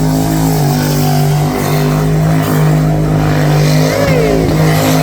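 Twin-turbo LS1 V8 engine of a burnout car held at steady high revs on the limiter during a burnout, its pitch barely changing.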